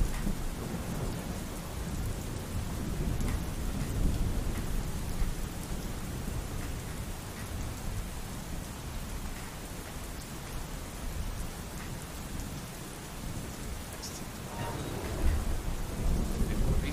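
Heavy rain pouring steadily, with low rolling thunder rumbling under it and swelling again near the end.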